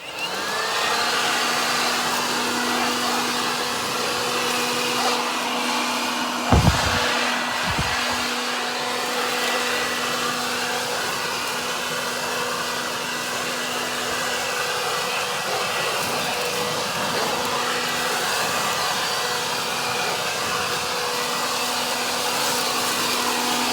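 Leaf blower running steadily with a constant motor hum and rushing air, blowing leaves down a rock creek bed. Two brief low thumps come about six and a half and eight seconds in.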